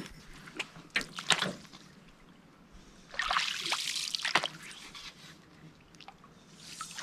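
Water splashing and dripping: two short splashes about a second in, then a longer splash with sharp drips from about three to four and a half seconds in.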